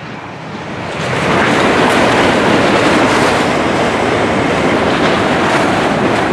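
Passenger train passing through the station at speed: a rush of wheel and rail noise that builds over about the first second, then holds steady.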